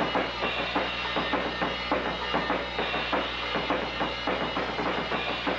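Drum kit being played in a steady rhythm, several hits a second.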